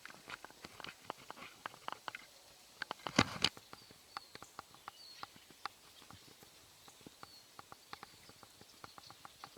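Footsteps through dry forest undergrowth: irregular crackling of leaves and snapping twigs underfoot, with a louder burst of rustling and cracking about three seconds in.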